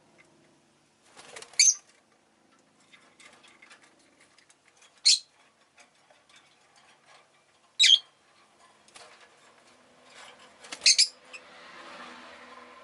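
Rosy-faced lovebirds giving short, loud, shrill chirps, four of them a few seconds apart, the last one doubled, with soft clicks and rustles between.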